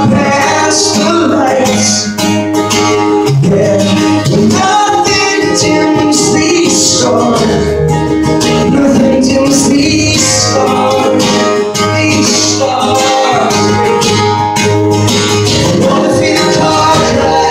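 Live acoustic song: a strummed acoustic guitar with a male voice singing over it.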